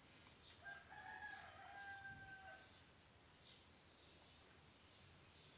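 Faint background bird calls: one long held crow, like a rooster's, then a quick run of high chirps from a small bird.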